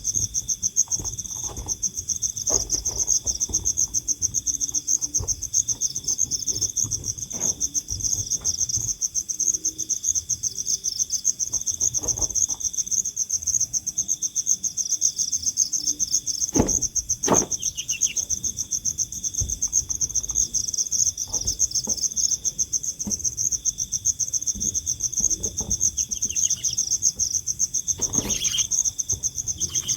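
Insects trilling steadily in two high, rapidly pulsing layers, with a low rumble underneath and a few short knocks, two a little past the middle and one near the end.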